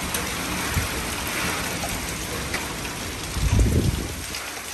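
Steady hurricane rain and wind hissing through the trees, with a brief low rumble about three and a half seconds in.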